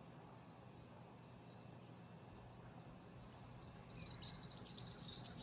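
Faint outdoor ambience of insects trilling steadily at a high pitch, with a louder burst of rapid high chirping about four seconds in.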